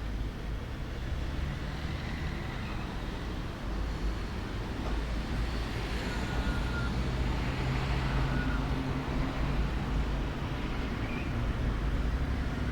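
Steady low rumble of distant road traffic, slightly louder in the second half, with a few faint short high chirps over it.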